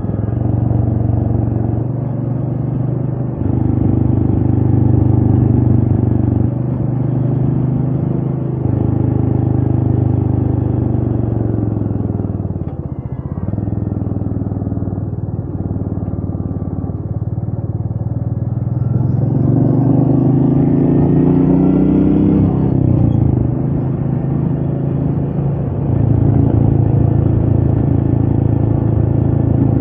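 Royal Enfield Meteor 350's single-cylinder engine running under way, heard from the rider's seat. The note sags briefly about thirteen seconds in, then rises steadily from about twenty seconds in and drops suddenly at a gear change.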